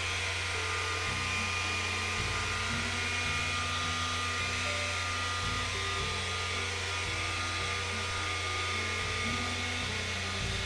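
Dual-action polisher running steadily as its buff is moved slowly over the car's black paint, under light pressure from the machine's own weight.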